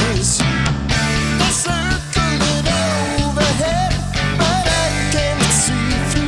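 Rock song: a band with electric guitars, bass and drums, with a lead line bending in pitch over the chords.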